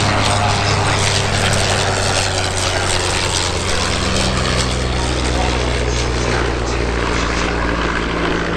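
Piston-engined propeller aircraft in flight, its engine running steadily and the note dropping in pitch about four seconds in.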